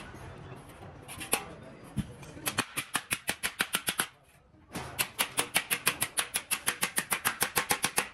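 Rapid, even, sharp knocks, about six or seven a second, in two runs with a short break between them, like quick hammering or chopping.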